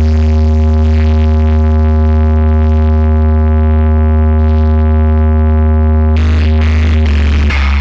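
Loud electronic music played through a large DJ sound system under bass testing: one deep bass note held steady for about six seconds, then a run of beats breaks in about six seconds in.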